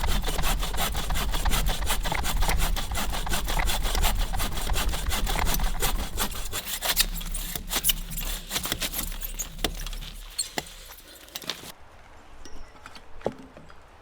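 Lightweight take-apart camp saw cutting through a dead log, with fast, steady back-and-forth strokes. The sawing stops about ten seconds in, followed by a few light knocks.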